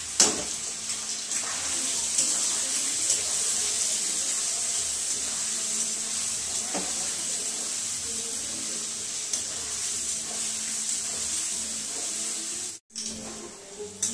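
Paneer cubes deep-frying in hot oil in a steel kadai: a steady, loud sizzle, with a few sharp clicks of the slotted spoon against the pan. The sizzle cuts out for a moment near the end.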